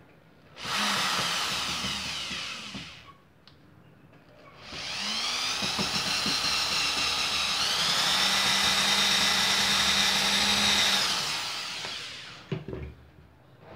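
Bosch GSR 7-14 E corded drill/driver motor driving a 1/4-inch screw into hardwood: a short run of about two seconds, a pause, then a longer run of about seven seconds. In the longer run the whine rises, steps higher partway through, holds and then fades out.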